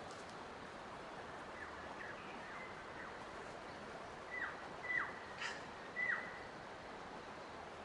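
A bird calling a series of short notes that each slur downward, faint at first, then four louder ones in the second half, over a steady background hiss.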